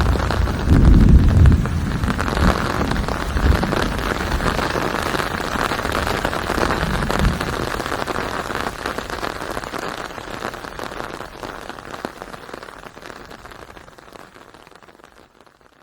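Steady rain pattering, with a low rumble about a second in, slowly fading out to silence by the end.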